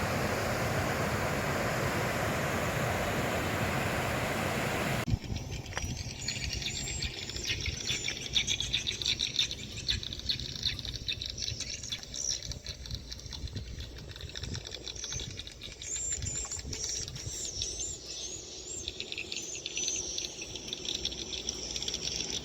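Wind rushing over the microphone. About five seconds in it cuts off abruptly to a busy chorus of short, high, twittering bird chirps that goes on steadily.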